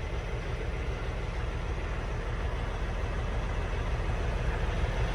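Kenworth semi truck's Cummins X15 diesel engine running steadily, a low even rumble.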